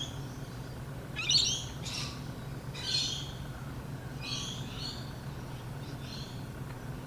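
A bird calling about four times in short, high, chattering calls, the loudest about a second in, over a steady low hum.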